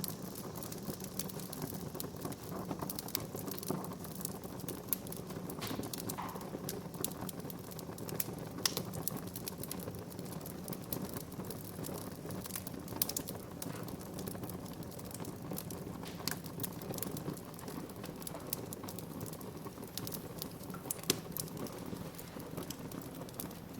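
Wood fire burning in a fireplace: irregular sharp pops and snaps over a steady low rush of flames.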